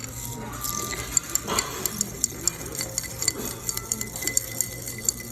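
A spoon stirring iced coffee hard in a glass: quick, repeated clinks of spoon and ice against the glass, about three or four a second.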